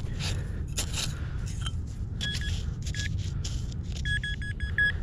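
A sand scoop scraping and digging into beach sand, with a metal detector beeping over the hole about two seconds in, once more around three seconds, and in a fast run of beeps near the end as it sounds on a buried metal target. A steady low rumble runs underneath.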